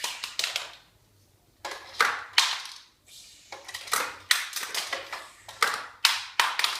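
Hard plastic toys knocking and clacking together as they are handled, a dozen or so sharp clacks at uneven intervals.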